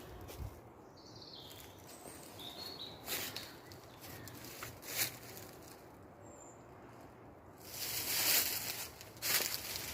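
Footsteps and rustling through twigs, leaf litter and branches, with a longer, louder rustle near the end as of pushing through brush into a den of branches. A few faint birds chirp.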